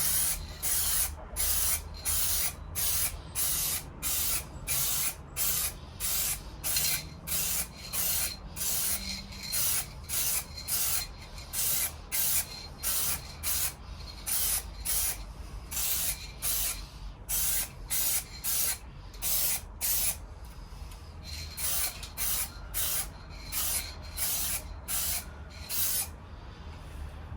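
Aerosol can of silver spray paint sprayed in short, evenly spaced hissing bursts, a little under two a second, with a brief pause about twenty seconds in, laying on a light colour coat.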